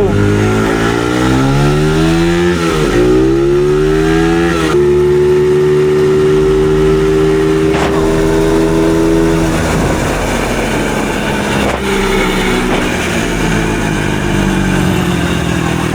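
Dirt bike engine accelerating under way: its pitch climbs, drops at a gear shift about three seconds in, climbs again, then holds steady at cruising speed. After about ten seconds the engine note becomes less distinct under a rougher rushing noise.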